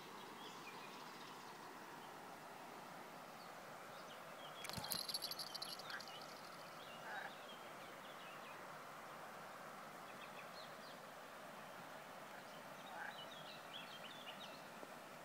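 Small birds chirping here and there over a steady low hiss. About five seconds in comes a thump followed by a second-long burst of rapid clicking, the loudest sound.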